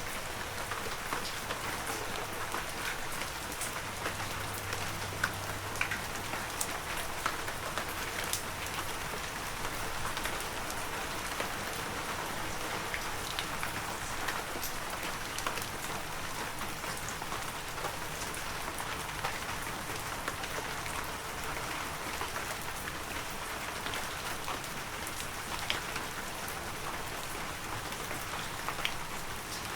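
Heavy rain falling steadily, a dense even hiss with many individual drops ticking sharply against nearby surfaces.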